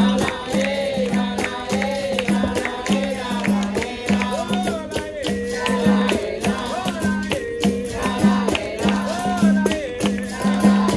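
Capoeira roda music: voices singing a melodic song over berimbau, rattle and tambourine-like pandeiro, with a low note pulsing in a steady beat under sharp percussive strikes.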